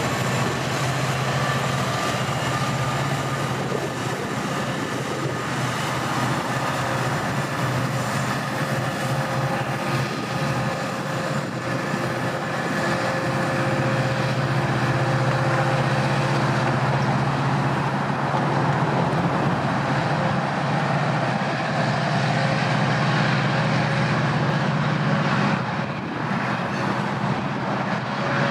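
Union Pacific freight train passing: its diesel locomotives' engines run with a steady low hum over the continuous rumble of double-stacked container cars rolling on the rails.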